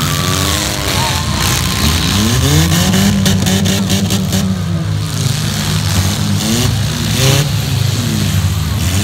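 Demolition derby cars' engines revving up and down, more than one at a time, the pitch rising and falling in long swells. A cluster of sharp bangs comes about three to five seconds in.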